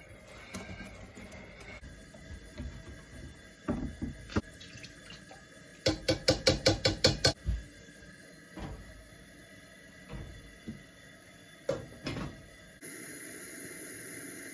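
Scattered knocks and clatter, with a fast run of about ten sharp knocks midway. A steady hiss starts suddenly near the end.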